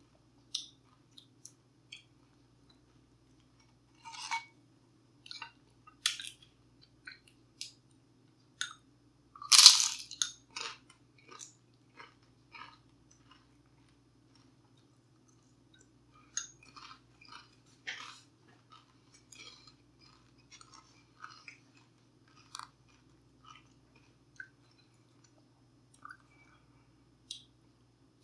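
Close-miked eating: wet chewing, biting and crunching of tacos and tortilla chips in scattered short crackles, with one loud crunchy bite about ten seconds in. A faint steady hum runs underneath.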